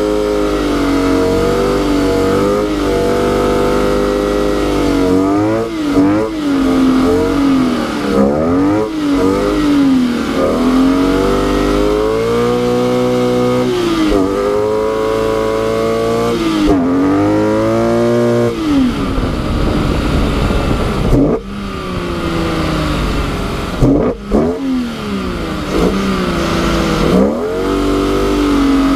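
BMW E46 M3's straight-six engine revving up and down again and again as the car is driven sideways on snow, the revs climbing and falling every second or two with the throttle and dropping off sharply a couple of times. A rushing noise of wind and spinning tyres on snow runs under it, strongest past the middle.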